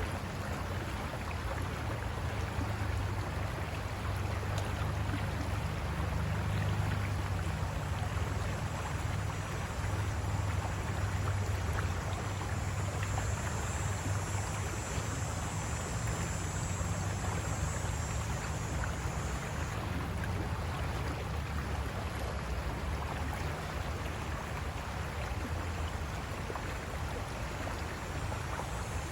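River water rushing over rocks: a steady, unbroken rushing noise with a deep rumble underneath. A thin, high, steady hiss joins it for several seconds in the middle.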